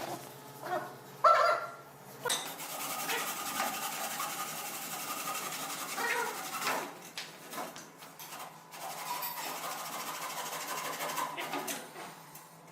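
A small power-tool motor starts about two seconds in and runs steadily, then stops near the end. A few short pitched sounds come before it.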